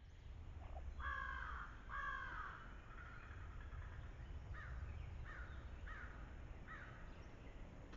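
Crow cawing: two loud, harsh caws about a second apart near the start, then four shorter, fainter calls spaced under a second apart. A low steady rumble of background noise runs underneath.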